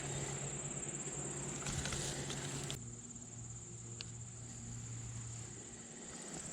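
Insects trilling steadily in a high-pitched chorus, with rustling handling noise that drops away suddenly about three seconds in and a faint click near the end.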